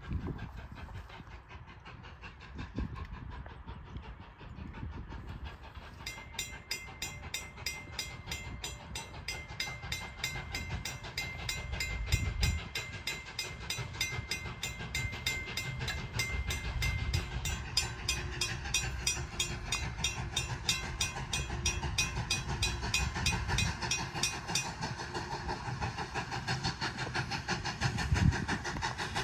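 A train on the railroad, with a low rumble throughout. A fast, evenly repeating metallic clicking starts about six seconds in.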